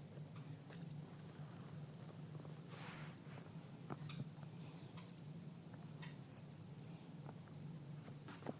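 A small bird chirping: five short, high, warbling trills at irregular intervals, one a little longer than the rest past the middle. A steady low hum runs underneath.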